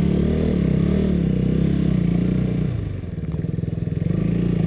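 KTM RC 200's single-cylinder engine running as the bike is ridden slowly, its pitch wavering with the throttle. The engine eases off about three seconds in, then picks up and runs steadily.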